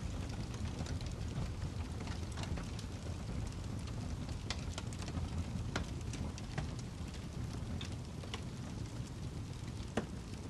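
Wood log burning in a fireplace: a steady low rumble of the fire with scattered sharp crackles and pops, the loudest pop near the end.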